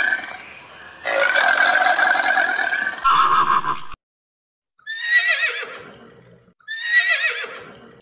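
A horse whinnies twice, each call starting high and falling away in pitch, in the second half. Before that there are about three seconds of a different, noisier sound.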